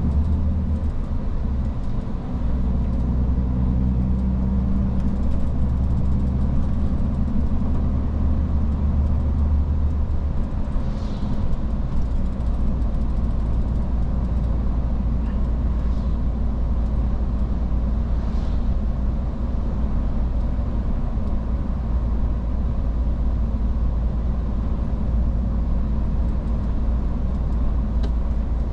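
Iveco S-Way truck driving, with a steady low diesel engine drone under road noise. The engine note shifts about ten seconds in.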